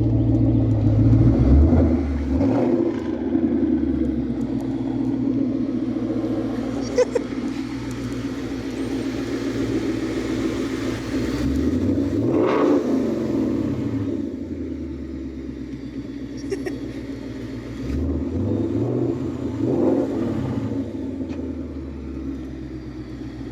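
Ford Mustang GT 5.0 V8 running through a full MBRP aftermarket exhaust. It idles steadily and is revved up and let back down three times.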